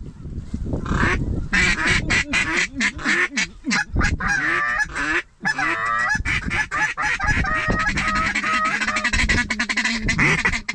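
Ducks quacking and geese honking, rapid and overlapping, the calling heard around a waterfowl decoy spread.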